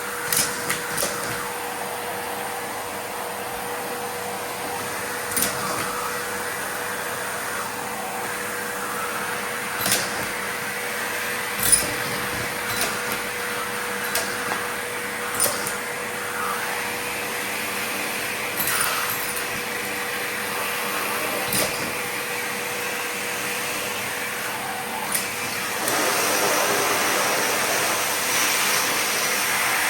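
Miele vacuum cleaner running steadily with a constant hum, while Lego pieces are sucked up with scattered sharp clicks and rattles. Near the end the suction gets louder and rougher.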